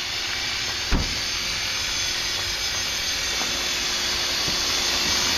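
Electric HK450 (T-Rex 450 clone) RC helicopter running in flight, its rotor and motor heard as a steady hissing whir mixed with wind noise on the microphone, growing slowly louder. There is a brief thump about a second in.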